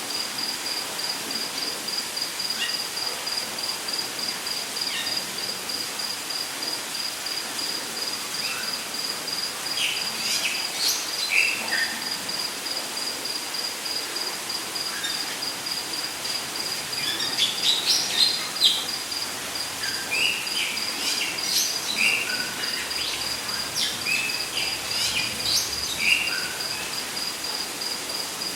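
Rainforest ambience: an insect, cricket-like, keeps up a high, steady pulsing trill while birds give scattered short chirps and calls, busiest about ten seconds in and again in the second half.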